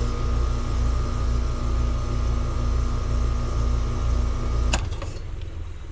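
Two-stage Trane heat pump outdoor unit running with a steady low hum. About four seconds in, a sharp click and the hum stops as the unit shuts off: the jumper wire came apart at the wire nut, dropping the call.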